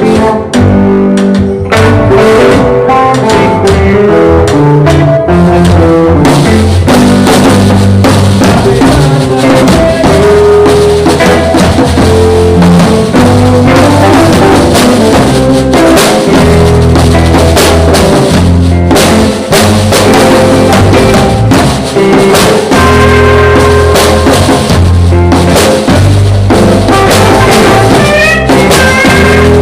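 Live band jamming: a drum kit with snare and bass drum keeps a beat under bass notes and chords, the cymbals and drums fuller from about six seconds in. The recording is loud and overloaded, which makes it harsh.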